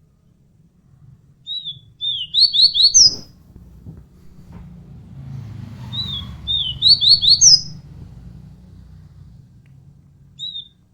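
A songbird singing the same short phrase twice, about four seconds apart: a couple of falling notes, a quick run of three rapid notes, and a higher final note.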